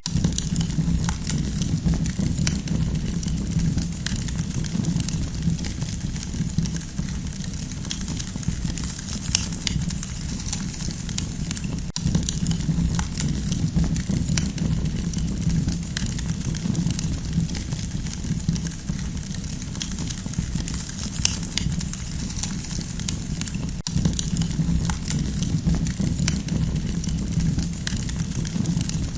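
Campfire burning with a steady low rumble and frequent small, irregular crackles and pops.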